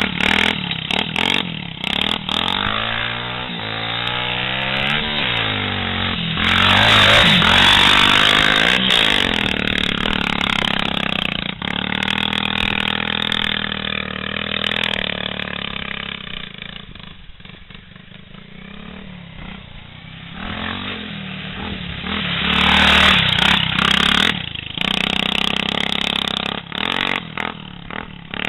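Small off-road vehicle engines running and revving, the pitch repeatedly rising and falling with the throttle. The sound drops to a lower level for several seconds past the middle, then comes back loud near the end.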